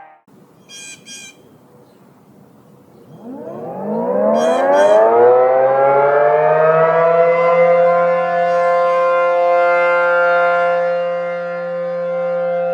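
ACA P15 outdoor civil-defense warning siren winding up: a rising pitch from about three seconds in that settles by about seven seconds into a loud, steady two-tone chord, sounding a steady alert test. Two brief high chirps sound in the quiet before and during the wind-up.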